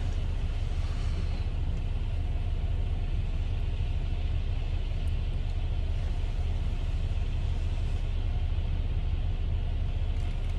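Steady low rumble of a car heard from inside the cabin, the engine and road noise of the car on the move.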